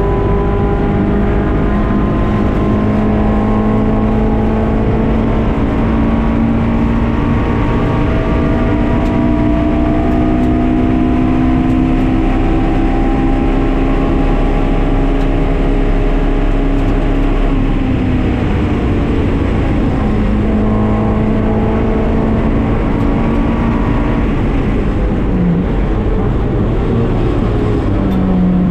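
Honda K24 inline-four of a K-swapped Mazda MX-5 Miata running at high revs under load, its pitch climbing slowly through a long pull. Past halfway the pitch drops as the driver lifts or shifts up, holds steady, dips briefly near the end, then climbs again.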